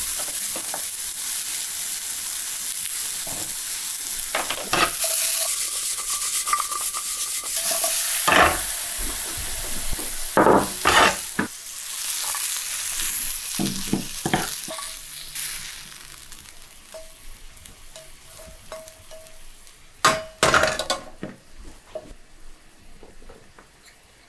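Zucchini and mushroom slices sizzling in hot oil in a frying pan, a steady hiss that fades away in the second half. A few sharp knocks and clinks stand out, the loudest about ten and twenty seconds in.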